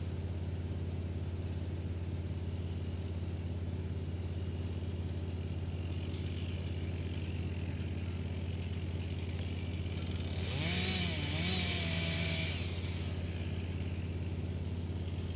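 Wood chipper running steadily with a constant low engine hum. About ten and a half seconds in, a louder burst of rushing, shredding noise lasts about two seconds while a pitched tone wavers.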